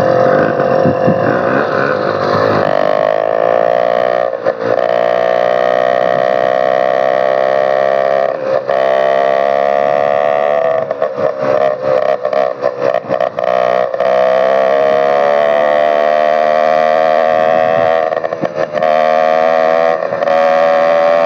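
Motorized bicycle's small engine running with an open exhaust pipe and no muffler. It is held at fairly steady revs, with a slight rise in pitch early on and several short dips where the sound cuts out for a moment.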